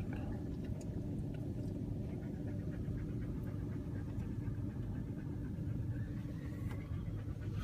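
Steady low rumble of an engine running, with a faint even hum and no change in pitch.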